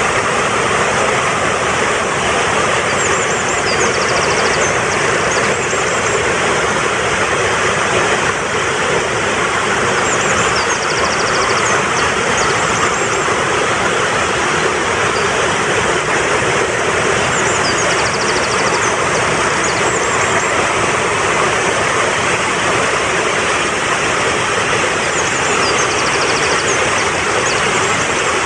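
Mountain stream rushing steadily and loudly, with a songbird's short, high trilling phrase repeating every few seconds over the water.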